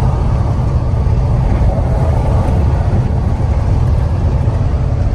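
Box truck's engine and road noise: a steady low rumble with no break.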